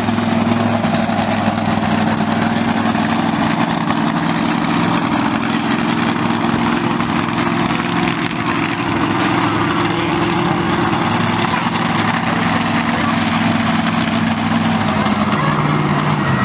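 A loud vehicle engine idling steadily, holding an even low pitch with a slight shift near the end.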